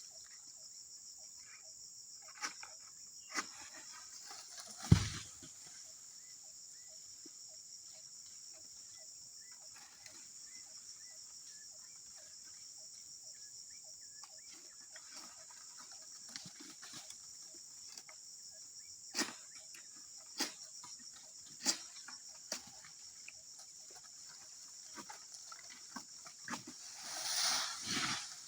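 Steady high chirring of insects, with scattered clicks and knocks and rustling. One loud thud comes about five seconds in, and a louder rustling swell comes near the end.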